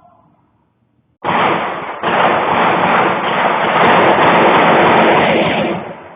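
Dense, rapid gunfire, many shots running together into one loud crackling volley. It starts abruptly about a second in, dips briefly near two seconds and stops shortly before the end.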